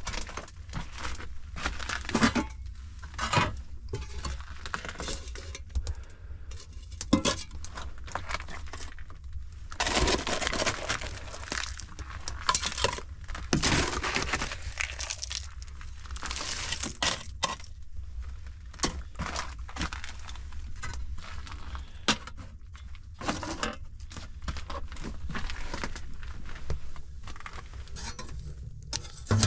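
Pots, a kettle and dishes being handled: repeated clinks and knocks of metal and glass, with a few longer scraping or rustling stretches between them.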